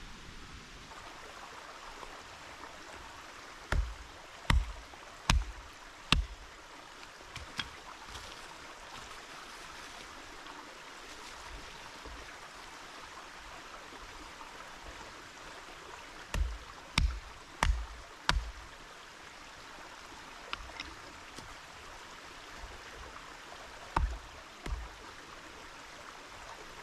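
Sharp knocks in short runs of two to four, each about three quarters of a second apart, over a steady rushing hiss.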